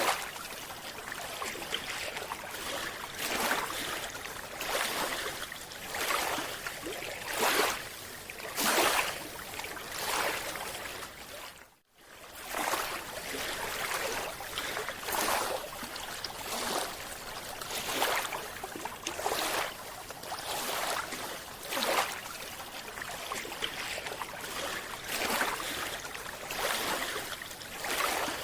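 Underwater water noise with bubbly surges every second or two. It drops out briefly about twelve seconds in.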